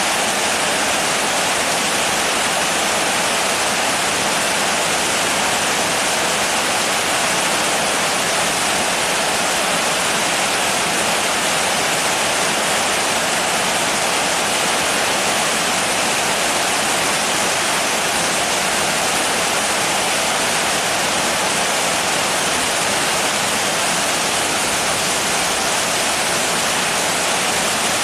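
Steady heavy rain: an even, unbroken hiss with no single drops or drips standing out.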